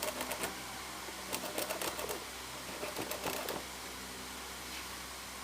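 A dull knife cutting through old tyre rubber with effort, making quick crackling clicks in three short spells: one at the start, one about a second and a half in, and one about three seconds in.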